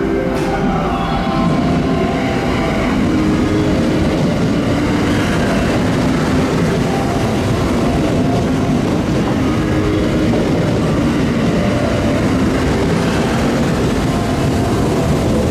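JR West 681/683-series limited express electric train running along the platform, with steady, loud rolling wheel-on-rail and running-gear noise as the cars pass.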